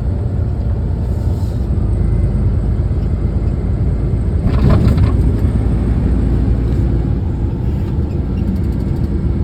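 Steady low rumble of a truck driving, engine and road noise heard from inside the cab, with a brief louder sound about halfway through.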